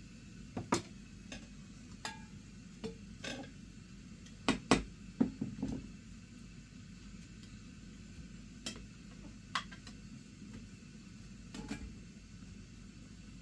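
Irregular light knocks and clinks of hard objects being handled, about a dozen in all, with a louder cluster near the middle.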